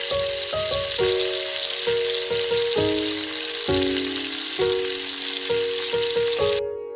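Beef chapli kababs sizzling as they shallow-fry in plenty of oil in a wide flat pan, a steady hiss that cuts off suddenly near the end. Background music with a melody of struck notes plays under it.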